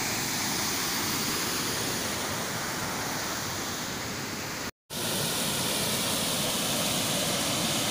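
Waterfall: a steady, even rush of falling water. The sound cuts out completely for a split second about five seconds in, then resumes.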